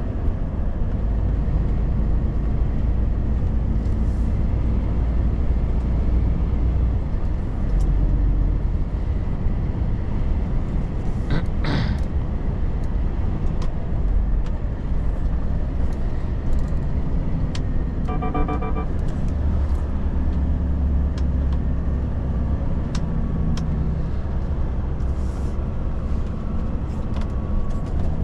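Volvo FH truck's diesel engine and road noise on the move, a steady low drone whose low tones shift now and then. About 18 seconds in there is a brief, rapidly pulsing tone, and a short hiss a little before the middle.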